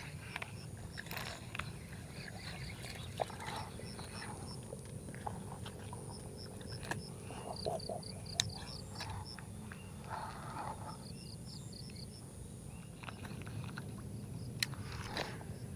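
Outdoor ambience by the water: a steady low rumble under short, repeated series of high chirps, with scattered small clicks and taps.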